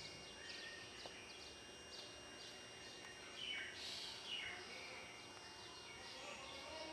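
Birds singing: many quick, falling chirps, with a louder flurry about halfway through.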